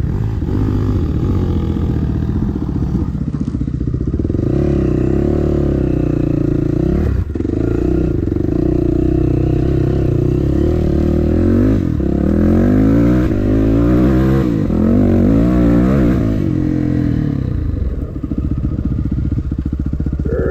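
Dirt bike engine running hard on a trail ride, revs climbing and dropping again and again with brief breaks in between as the rider works the throttle and gears. It settles to lower, steadier running near the end.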